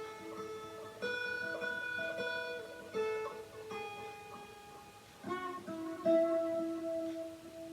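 Strat-style electric guitar played through a pedal into a mini amp head and Vox BC108 cabinet: picked notes and chords ringing out, with fresh attacks about every one to two seconds.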